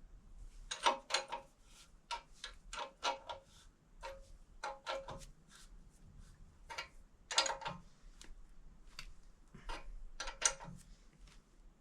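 Irregular metallic clicks and clinks of hand tools working on bolted fittings: about a dozen short, sharp strikes, some in quick pairs.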